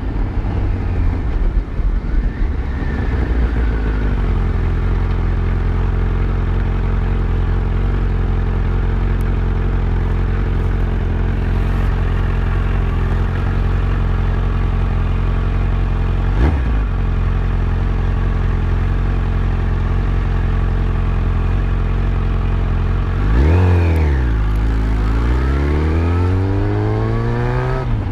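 Yamaha FZ1's inline-four engine running at a steady speed under way, with one short sharp click partway through. Near the end the revs rise quickly, drop, then climb steadily again as the bike accelerates.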